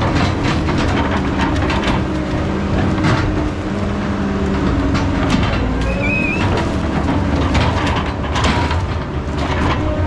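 Heavy diesel logging machinery running steadily, with frequent irregular metallic clanks and knocks over the engine.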